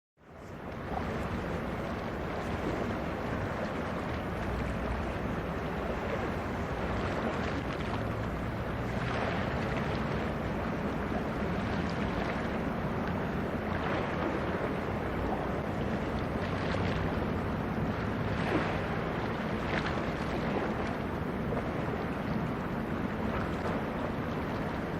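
Steady wind buffeting the microphone over the wash of sea water, with a faint low hum underneath. It fades in at the start.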